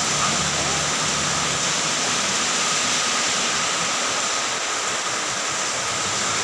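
Heavy rain falling, a steady even rushing with a faint high steady tone in the background.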